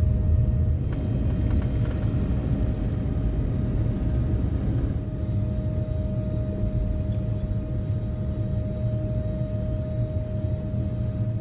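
Steady low rumble inside a Boeing 787-9 airliner cabin, with a steady whine that rises slightly in pitch near the end.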